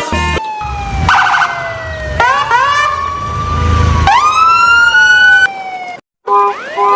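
Siren-like electronic sound effects: long sliding tones, one falling slowly, with quick upward sweeps about two and four seconds in. Near the end there is a brief break, then steady held tones.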